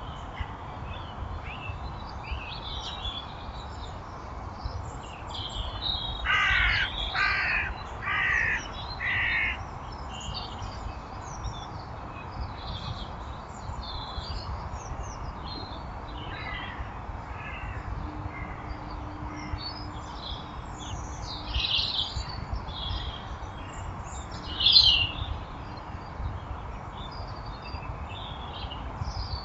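Four harsh, cawing bird calls in a row, about a second apart, over small birds chirping off and on. A loud short call comes later.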